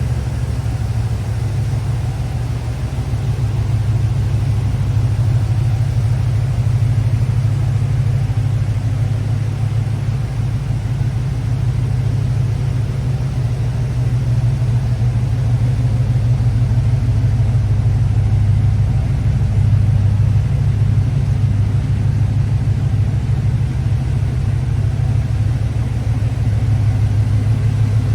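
1984 Chevy K5 Blazer's V8 engine running at a steady idle, a low, even engine note with only slight swells.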